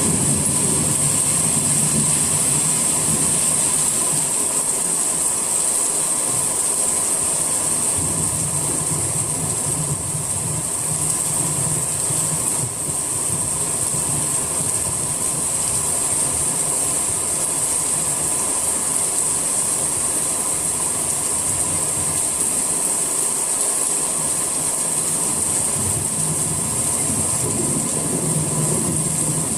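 Steady summer rain falling: a continuous even hiss, with a low rumble that comes and goes.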